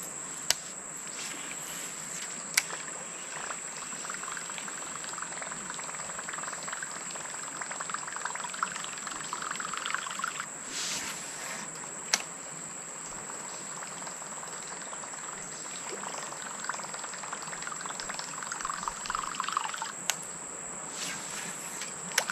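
Topwater plopper lure (H2O Double Plop) sputtering and gurgling across the water as it is retrieved, in two stretches, over a steady high buzz of insects. A few sharp clicks stand out.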